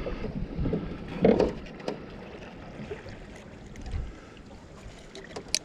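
Scattered knocks and clicks of gear being handled aboard a small boat, over light wind noise, with a sharp click shortly before the end.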